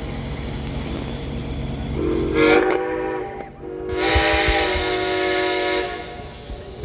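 Steam tractor's whistle blown twice, a short blast about two seconds in and a longer one about a second later, over a low steady rumble.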